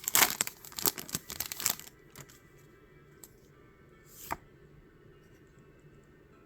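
Pokémon card pack packaging crinkling and tearing open for about the first two seconds, then a few soft clicks and flicks of cards being handled over faint background music.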